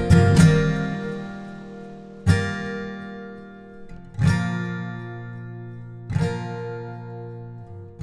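Acoustic guitar music: a quick strum at the start, then one chord strummed about every two seconds and left to ring out.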